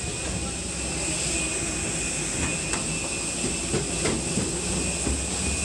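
Airbus A320 cabin noise while the plane taxis after landing: a steady low rumble under a constant high engine whine, with a few short knocks.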